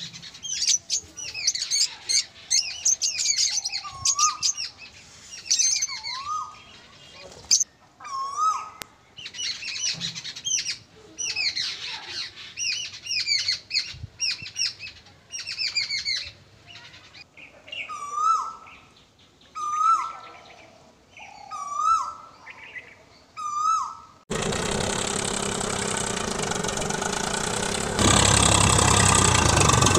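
Songbirds chirping and whistling in quick runs, with a hooked whistle repeating about every two seconds. About 24 seconds in, the birdsong gives way to a steady engine-like drone, which steps up louder about four seconds later.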